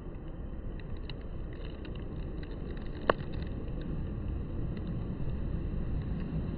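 Steady low rumble of outdoor background noise, with one sharp click about three seconds in.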